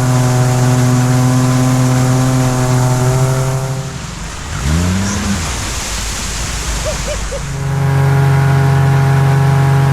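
Outboard engine of an inflatable river jet boat running at a steady high speed, easing off about four seconds in with a brief rise and fall in pitch, then settling back to a steady run near the end.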